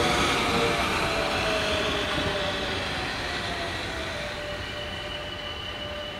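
A train running past and moving away, its sound fading steadily, with a high whine from the train sliding slowly down in pitch.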